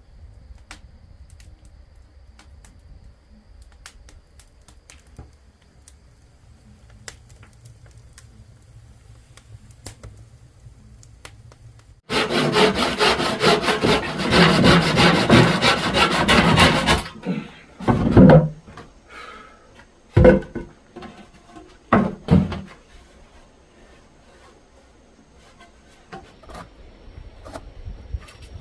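Wood being sawn by hand, a fast run of rasping strokes that starts abruptly about twelve seconds in and lasts about five seconds. It is followed by a few separate wooden knocks, after quiet scattered ticks in the first part.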